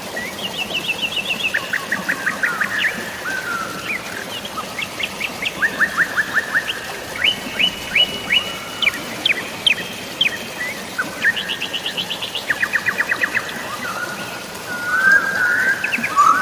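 Songbirds singing one rapid trill after another, each a quick run of repeated chirps, shifting in pitch from phrase to phrase. A faint steady hiss of rain and flowing water sits underneath.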